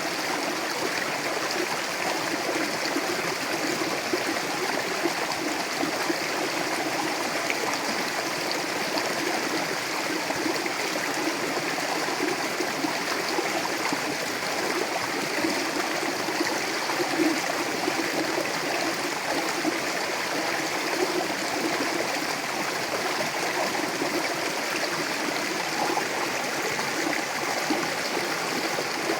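Mountain river running steadily over rocks, a continuous rush of water with gurgling.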